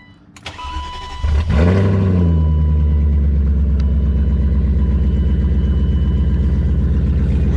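BMW E34 540i V8 with the muffler and resonator removed, straight-piped after the catalytic converters, starting up. It catches about a second in with a loud flare of revs, then settles within a second or two to a loud, steady, pulsing idle.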